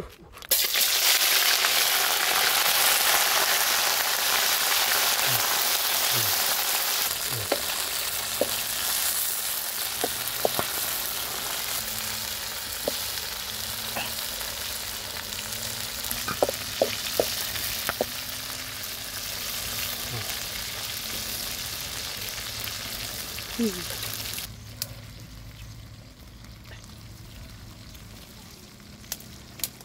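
Crickets and chillies frying in hot oil in a wok over a wood fire. A loud sizzle starts suddenly, eases off slowly with scattered pops, then drops to a faint sizzle near the end.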